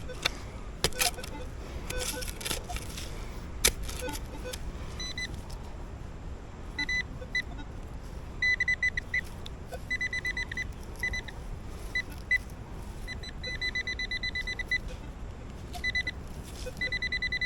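A metal detector sounding a high, rapid pulsing beep in repeated runs of up to about a second and a half, signalling a buried metal target under the coil. A few sharp knocks come in the first seconds, as from digging into hard ground.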